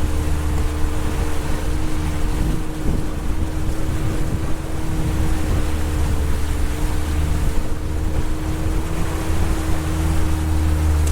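A small fishing boat's motor running steadily under way with a steady whine, over wind buffeting the microphone and water rushing past the hull in rough, choppy seas.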